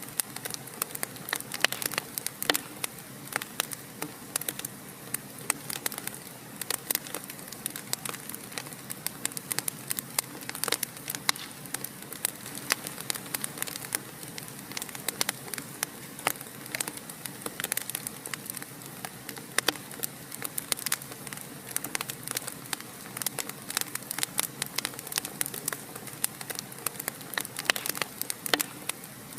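Wood fire in a fireplace crackling: frequent sharp irregular pops and snaps over a soft steady hiss of the flames.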